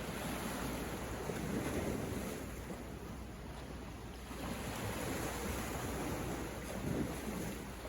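Sea waves washing onto the shore, the surf swelling twice, with a low rumble of wind on the microphone.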